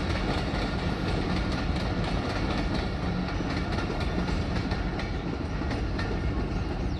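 Passenger train coaches rolling past on the track: a steady rumble with wheels clicking over the rail joints.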